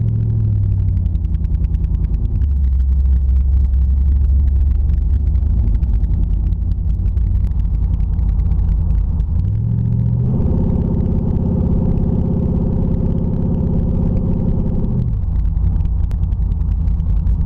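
Straight-piped 350 small-block Chevy V8 with no mufflers, running while the car is driven. The engine note falls at the start, runs low and steady, climbs about ten seconds in and holds higher, then drops back near the end.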